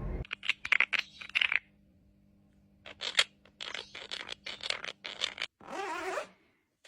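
A run of short scraping, scratching strokes in two bursts of rapid strokes, then a brief rougher rustle near the end.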